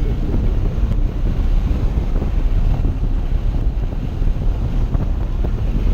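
Loud, steady rumble of wind buffeting the microphone and vehicle noise, as from a camera in a race car at speed.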